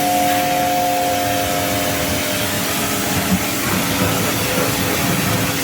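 Electric pressure washer running and spraying: a steady motor hum under the loud, even hiss of the water jet.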